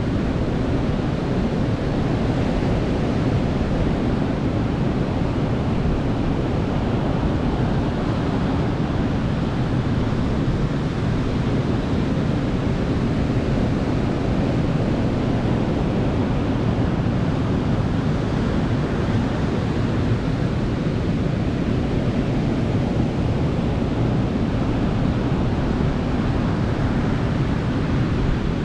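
Ocean surf washing onto a beach: a steady, even rush of noise, heaviest in the low end, with no separate breaks standing out.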